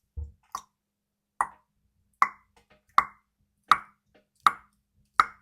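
A run of short pops, evenly spaced about three-quarters of a second apart, each dying away quickly.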